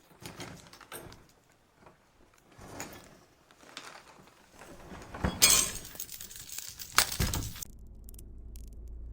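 Scattered knocks and clinks, then a loud crash-like burst of noise about five and a half seconds in, with a sharp bang near seven seconds, giving way to a steady low hum.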